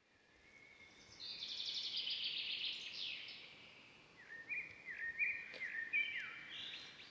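Songbirds singing: a fast trill of high notes lasting about two seconds, then a series of short, whistled, down-slurred notes from about four seconds in.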